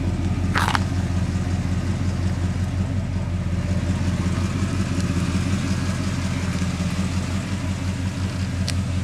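A 1968 Oldsmobile 4-4-2's Rocket 400 V8 idling with a steady low rumble through its dual exhaust, with one short sharp click about a second in.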